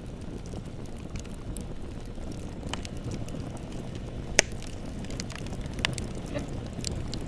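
Bonfire burning with a steady low rumble of flames and irregular crackles and pops from the wood, one sharp pop louder than the rest about four and a half seconds in.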